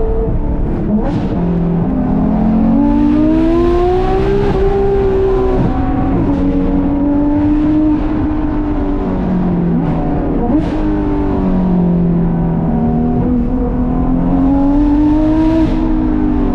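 Porsche 991.2 GT3 RS's 4.0-litre flat-six, breathing through Dundon street headers and a Crack Pipe exhaust, revving up and down as the car is driven. The pitch climbs and drops back with shifts several times, with a couple of sharp cracks, one about a second in and one past the middle.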